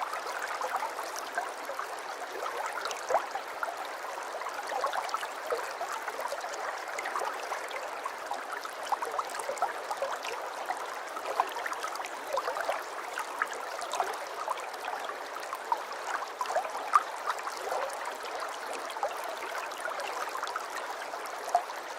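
Aquarium water trickling and bubbling steadily, with many small pops and drips.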